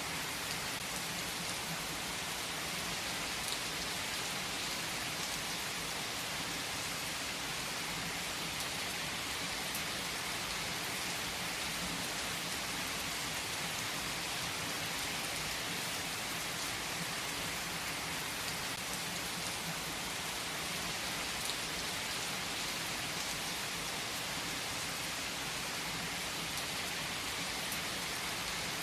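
Steady rain falling on surfaces: an even hiss with an occasional sharper drop tick.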